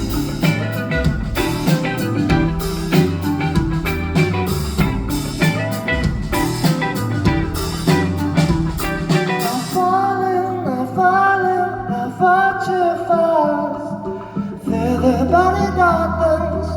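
Live band music: drum kit and guitar playing at full volume. About ten seconds in, the drums drop out and a sung melody carries on over bass and held chords.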